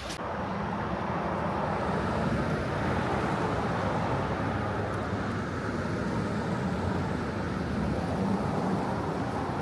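Steady engine and road noise of a moving tour bus.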